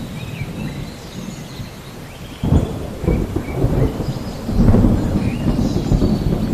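Thunder rumbling over steady rain, with a sudden louder roll about two and a half seconds in that swells again around four and a half seconds. A few short high chirps sound near the start and the end.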